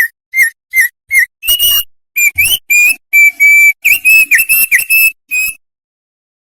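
An opior songbird singing loudly in clear whistled notes: four short spaced notes, then a faster run of whistles and quick slurred notes. The song stops about five and a half seconds in.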